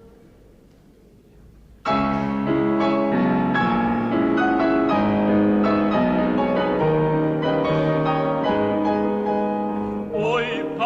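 A low hush for about two seconds, then a solo piano starts the introduction to a Russian folk song and plays on steadily. Near the end a male operatic tenor voice comes in.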